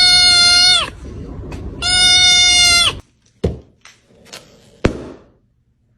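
A goat bleating loudly twice, two long flat cries about a second apart that each drop a little in pitch at the end. A few short knocks follow.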